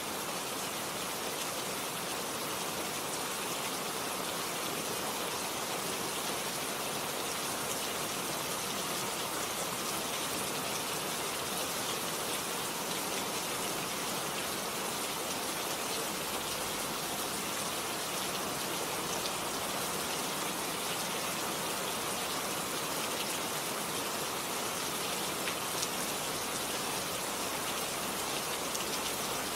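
Steady rain falling on garden plants and leaves, a constant hiss of many fine drops.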